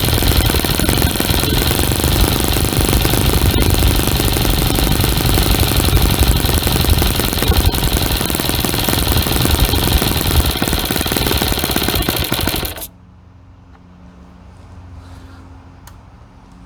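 OS FS-20 four-stroke glow-plug model engine running loud and fast through a home-made two-chamber aluminium exhaust silencer. It cuts off abruptly about 13 seconds in, leaving a faint steady hum.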